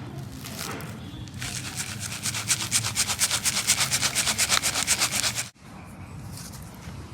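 Gritty cement being sifted: a sieve shaken back and forth in a fast, even rhythm of about eight strokes a second, the grit rattling and hissing through the mesh. The shaking starts about a second and a half in and stops abruptly a little after five seconds, leaving a fainter gritty hiss.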